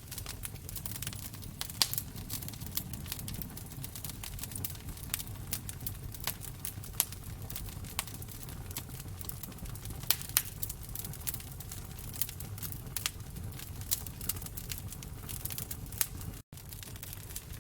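Wood fire crackling in a fireplace: irregular sharp pops and snaps over a steady low rumble of flame. The sound drops out for an instant near the end.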